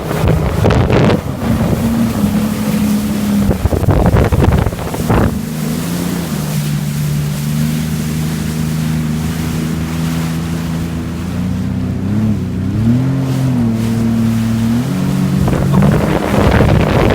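Jet ski engine running on the water, a steady hum whose pitch shifts up and down a few times with the throttle. For the first few seconds and again near the end it is half buried under wind on the microphone and rushing water.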